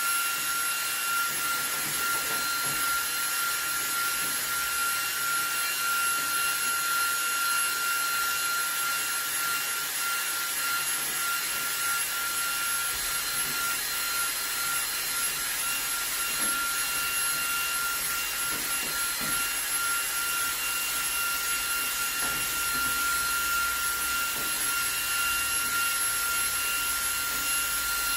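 eufy HomeVac H30 Mate cordless handheld vacuum running steadily with a high motor whine, its brush attachment working dust off a return air vent grille.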